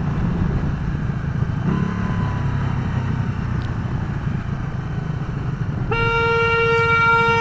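Motorcycle riding with engine and wind rumble, then a vehicle horn sounding one steady note, held for about a second and a half near the end.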